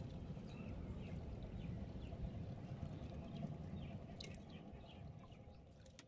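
Small birds chirping repeatedly over a low, steady outdoor rumble of water and wind, with a few sharp clicks. The sound fades out near the end.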